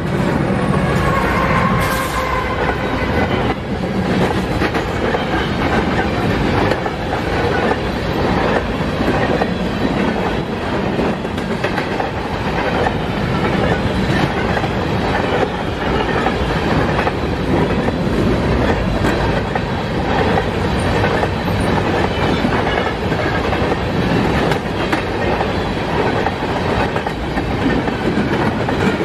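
A BNSF empty unit grain train passing close at speed. In the first few seconds the lead locomotive goes by with a slightly falling engine tone, then a long string of empty covered hopper cars rolls past with a steady clatter and clicking of wheels on the rails.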